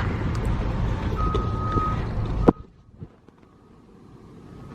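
Steady low rumble of road traffic with one steady beep about a second in, like a distant reversing alarm. Past the middle a sharp click, and the rumble cuts off suddenly, leaving a faint beeping tone.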